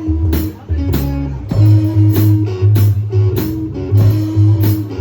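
Live blues music: guitar played over low bass notes, with a steady beat.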